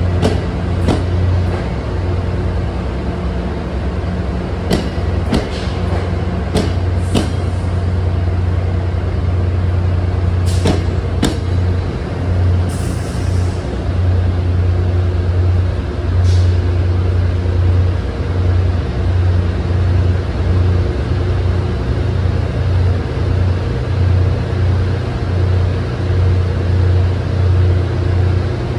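Commuter trains at a station: a steady low rumble and hum, with a run of sharp metallic clanks about five to eleven seconds in and a short hiss of air about halfway through.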